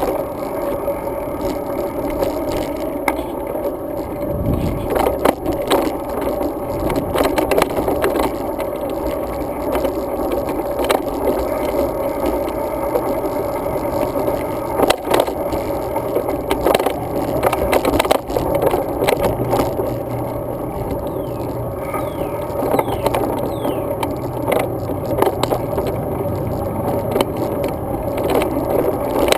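Road bike riding over pavement: steady rolling and road noise with frequent small rattles and knocks throughout.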